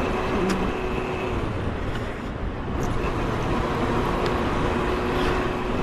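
Motorcycle engine running at steady, moderate revs while riding, with a constant rush of wind and road noise on the onboard mic.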